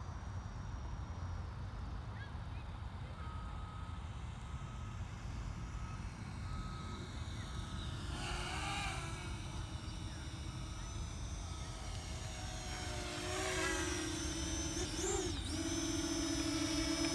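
Steady low outdoor rumble. From about 13 seconds in, the propeller whine of a Parrot Anafi quadcopter comes in and grows louder as it nears, its pitch wobbling up and back briefly near 15 seconds.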